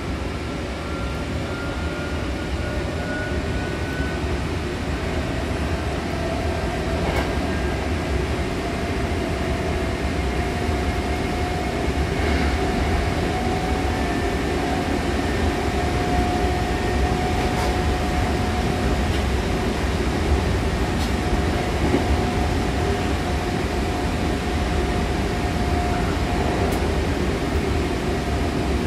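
Hankyu Takarazuka Line electric train running, heard from inside the car by the doors: a steady rumble of wheels and running gear, with the traction motor's whine rising in pitch over the first several seconds as the train picks up speed, then holding steady. A few faint clicks sound along the way.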